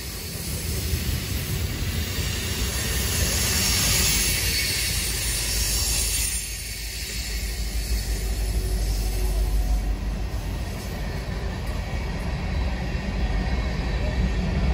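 A train rolling past: a steady deep rumble of wheels on rail, with a high hiss that swells a couple of seconds in and fades about halfway through.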